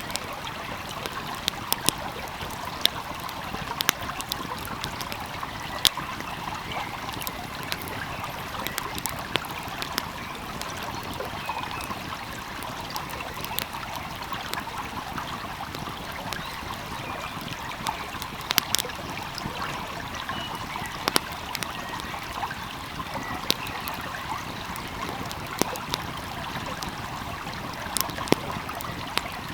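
Wood fire crackling with sharp, irregular pops over the steady rush of a gently flowing stream.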